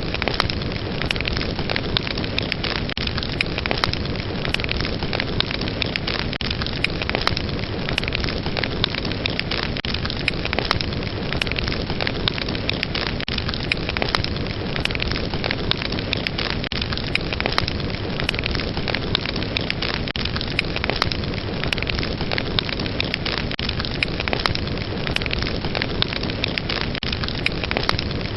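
Fire crackling: a steady rush of flames with dense, irregular pops and snaps.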